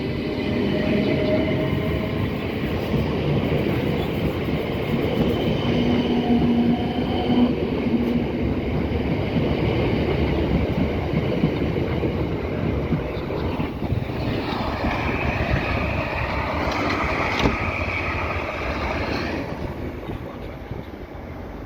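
Electric train running along the rails with a loud, steady rush of wheel and rail noise. A band of higher hissing comes in for several seconds about two-thirds of the way through, and the sound fades near the end.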